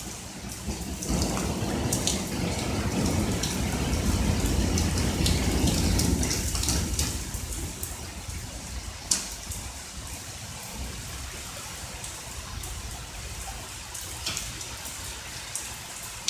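Steady rain with scattered close drops, and a low roll of thunder that comes in about a second in, builds for several seconds and dies away by about halfway.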